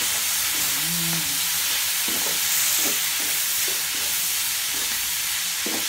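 Pork, onions and garlic sizzling in a hot wok with light soy sauce, stirred by a slotted spatula that scrapes across the pan in a run of short strokes from about two seconds in.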